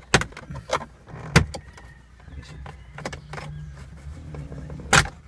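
Sharp clicks and knocks of car dashboard trim being pried and twisted loose with a blade: several in the first second and a half, and another strong one near the end.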